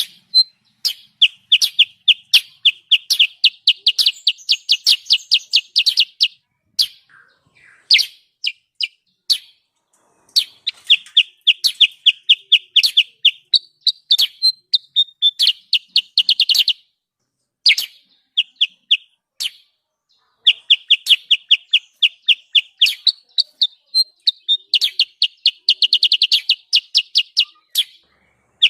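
Bird calls sold as a kutilang sutra lure recording: fast runs of sharp, high chirps, several a second, in phrases a few seconds long with short pauses between them. The busy, agitated chatter is used to call wild birds of the same kind in close.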